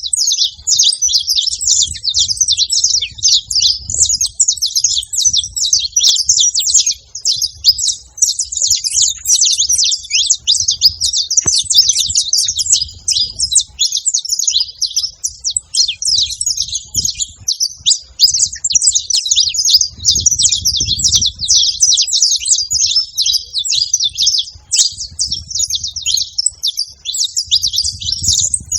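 Saffron finch singing continuously: a dense, unbroken run of rapid high chirps and trills.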